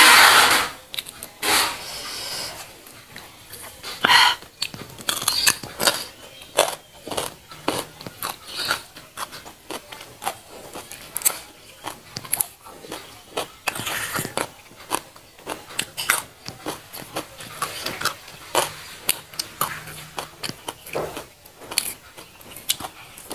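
Close-miked chewing and crunching of raw papaya leaf stalks: a steady run of short, wet crunches, with a few louder snaps near the start, about four seconds in and about fourteen seconds in.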